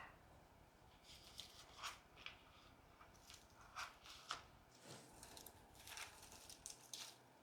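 Faint, scattered rustles and light clicks of twiggy branches being handled and pushed into an arrangement's floral foam.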